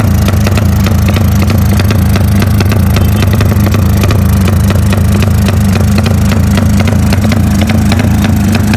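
Motorcycle fitted with an aftermarket 'helikopter' exhaust, running steadily with a low, choppy exhaust note.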